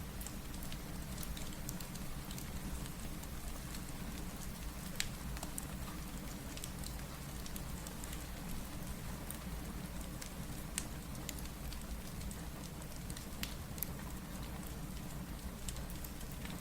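Steady rain hiss with scattered sharp pops and crackles from a wood fire mixed in.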